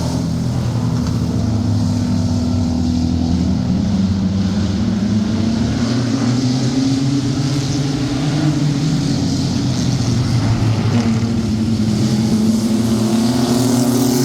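Stock truck racing engines running hard in a pack, their pitch rising and falling together as the drivers get on and off the throttle around the oval.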